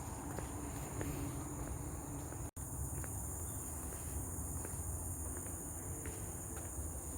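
Steady high-pitched insect chorus from the forest, with faint footsteps on the trail and a low rumble. The sound cuts out completely for an instant about two and a half seconds in.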